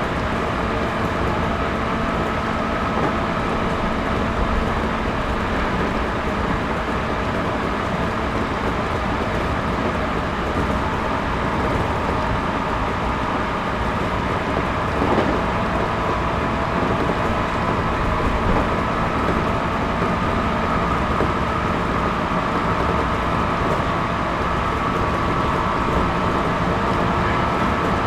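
Running noise inside the cabin of a JR Series 211-5000 electric multiple unit at speed: a steady rumble with a whine that rises slightly in pitch partway through, and a single knock about halfway.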